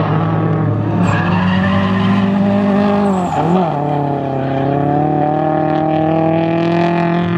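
A drift car's engine held at high revs with its tyres screeching in a slide. The revs dip briefly about three seconds in, then climb back and hold.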